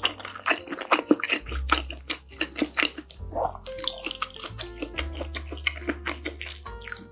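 Wet chewing sounds, many quick irregular clicks and smacks, from a mouthful of food chewed with the lips closed. Background music with low sustained bass notes plays underneath.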